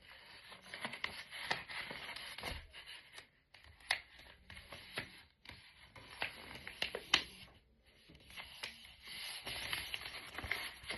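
A sheet of paper being folded and creased by hand: irregular rustling and scraping with short, crisp ticks as the fold is pressed flat.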